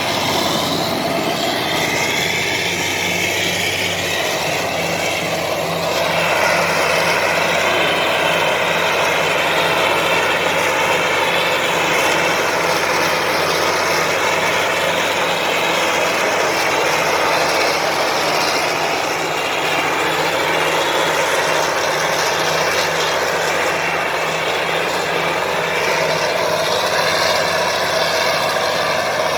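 Heavy earthmoving machine's diesel engine running steadily, with a clattering mechanical noise over it.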